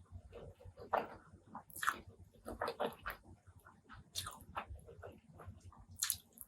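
Close-miked wet chewing and lip smacking from a person eating pork curry with rice, in irregular short clicks and smacks.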